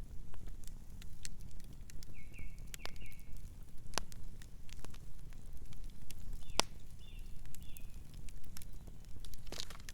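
Campfire burning with steady crackling, a low rumble underneath and a couple of sharper, louder pops from the wood. Two short runs of high chirps sound over it, once about two seconds in and again near seven seconds.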